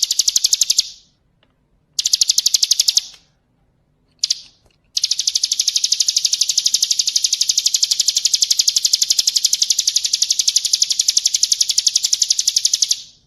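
A songbird's harsh rattling call: a fast, even train of high clicking notes, in short bursts at first and then one long unbroken run from about five seconds in. It is a harsh masteran call of the kind played to train caged songbirds.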